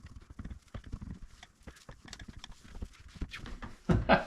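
A rapid, irregular series of light clicks and taps, with a louder knock about four seconds in.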